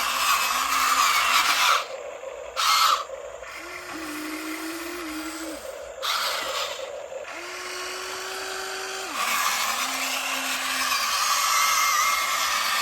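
RC excavator's hydraulic pump motor whining, its pitch stepping up and down as the arm works, over a hissing, scraping noise that drops out briefly a few times.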